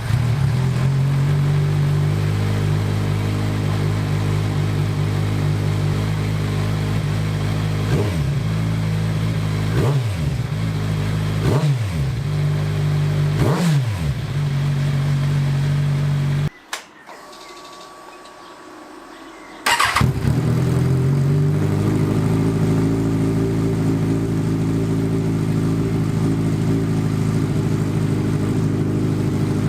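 Kawasaki Z1000's inline-four running through a freshly fitted aftermarket Black Widow exhaust header on its first start: idling, blipped four times in quick succession, then cut off for about three seconds and restarted, settling back to a steady idle.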